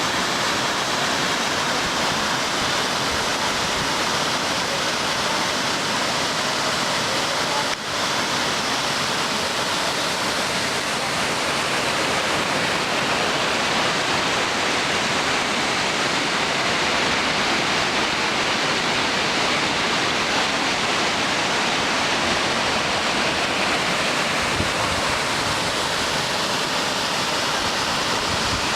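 Steady, loud rush of a waterfall, water pouring and splashing over rock, with a brief dip in level about eight seconds in.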